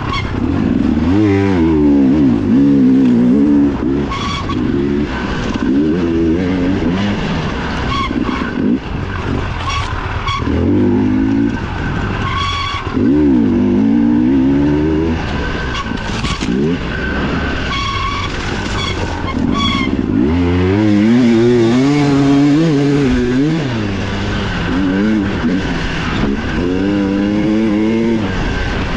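Dirt bike engine heard from on board during a trail race, revving up and backing off over and over as the rider accelerates, shifts and brakes, its pitch climbing in repeated sweeps.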